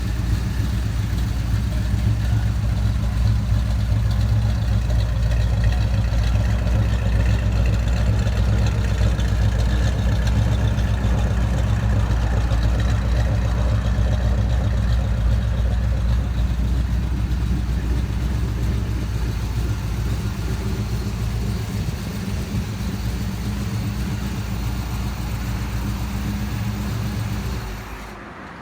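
Chevy 383 small-block V8 in a 1939 Chevrolet pickup idling steadily with a low, even rumble. It eases slightly in the last several seconds and stops near the end.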